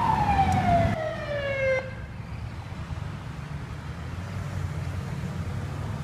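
Fire truck siren winding down, its pitch falling smoothly for about two seconds until it dies away, leaving the truck's engine running with a steady low rumble.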